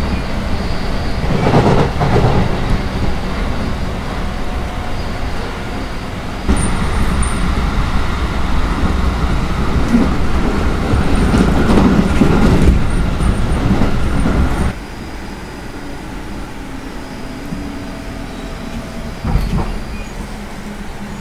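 Running noise of an electric local train, heard from inside the carriage: a steady rumble of wheels on the rails and the running gear. It gets abruptly louder about six seconds in and abruptly quieter a little past halfway, then stays at a lower, even level.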